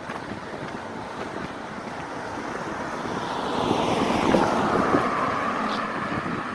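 Wind buffeting the microphone, with a vehicle passing: its noise swells about three seconds in, slides slightly down in pitch and fades toward the end.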